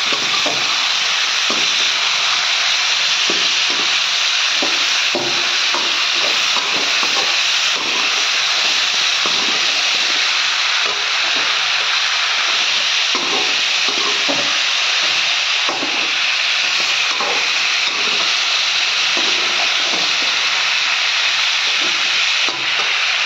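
Potato sticks and dried fish sizzling steadily in hot oil in a pan, with a slotted spatula scraping and stirring through them every second or so.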